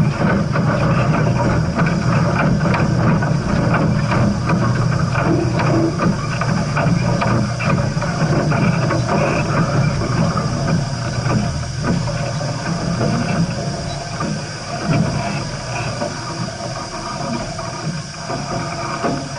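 Steam train running on the rails: a continuous heavy rumble with many rapid clanks and knocks of wheels and cars. The sound dies away gradually toward the end.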